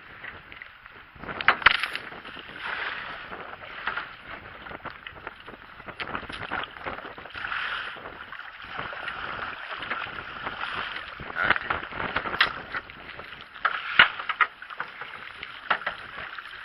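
Aluminium jon boat under way: a steady rush of water along the hull, broken by irregular sharp splashes and slaps against the hull, the loudest about 2 s in and twice near the end.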